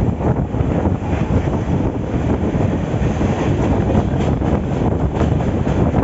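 Moving passenger train: a steady rumble of the running train with wind buffeting the microphone.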